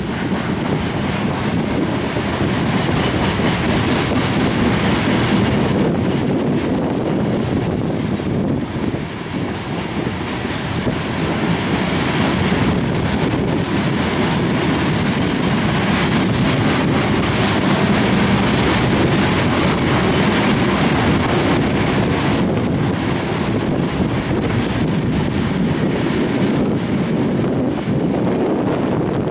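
Loaded coal hopper cars of a freight train rolling past: a steady rumble and clatter of steel wheels on the rails.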